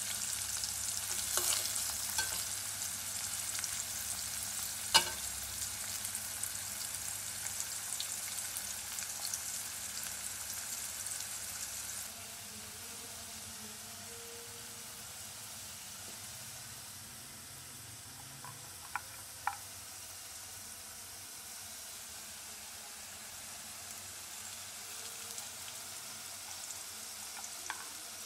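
Potato and vegetable strips frying in oil in an aluminium wok, a steady sizzle. A metal spoon stirring gives a few sharp clinks against the pan, the loudest about five seconds in. The sizzle drops noticeably about twelve seconds in.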